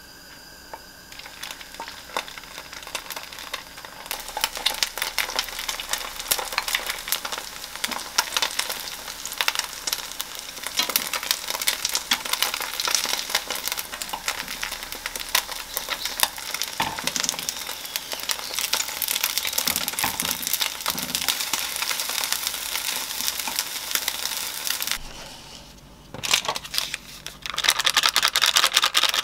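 Egg and cup-noodle pancake batter sizzling and crackling as it fries in olive oil in a nonstick pan. The frying stops about 25 seconds in, followed by loud crinkling of a plastic soup-seasoning sachet.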